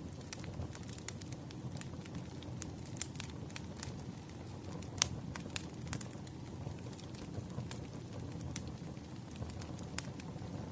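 Wood fire burning, with a steady low rumble and irregular sharp crackles and pops, the loudest pop about halfway through.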